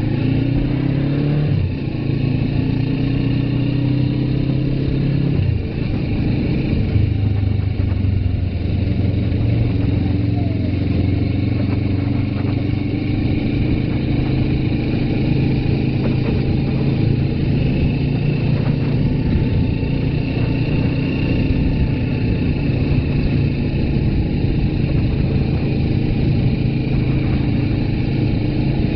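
Suzuki GS500F motorcycle's parallel-twin engine under way, rising in pitch as it accelerates and dropping twice in the first six seconds as it is shifted up, then holding a steady note at cruising speed.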